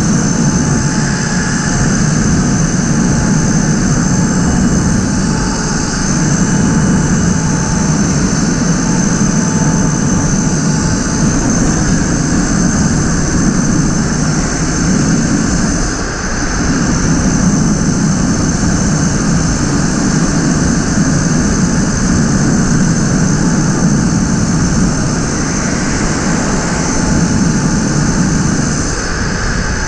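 Tuttio electric dirt bike ridden at a steady speed of about 40, with wind rushing over the microphone and tyre and road noise, under a thin, steady high whine. The sound eases briefly about halfway through and again near the end.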